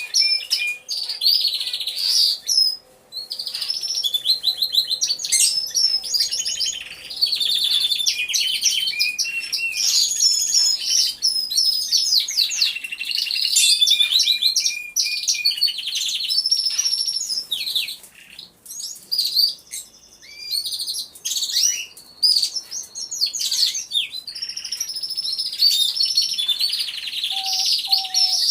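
Several domestic canaries singing at once: overlapping fast trills, rolls and warbled phrases, with short pauses between bursts.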